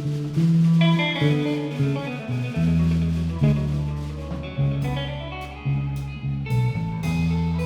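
A live band playing, led by guitar, with a deep bass line coming in about two and a half seconds in and sharp drum hits from about halfway through.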